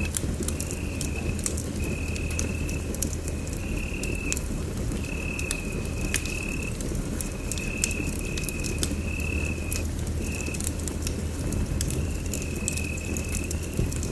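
Wood fire in a fireplace crackling and popping with many small sharp snaps over a steady low rumble. A thin high tone comes and goes in short stretches throughout.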